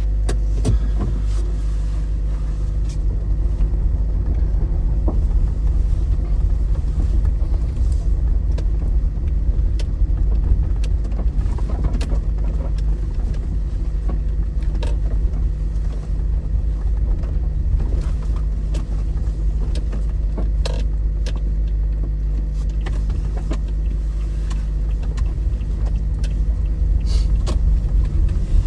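Steady low rumble of a car driving, with scattered faint clicks and ticks over it.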